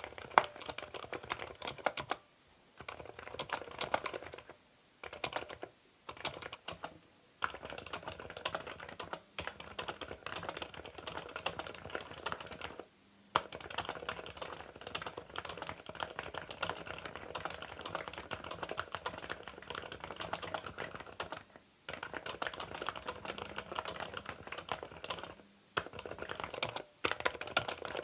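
Fast typing on a CIDOO V87 aluminium tenkeyless mechanical keyboard fitted with Epomaker silent Sea Salt linear switches: a dense, continuous run of keystrokes, broken by several brief pauses.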